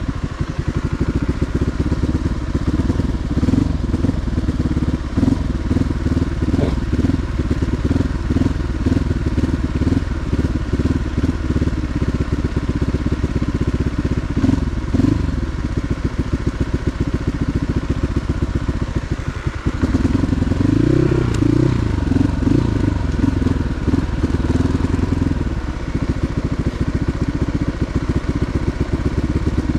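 Motorcycle engine running steadily, its pitch rising and falling for a few seconds about two-thirds of the way through.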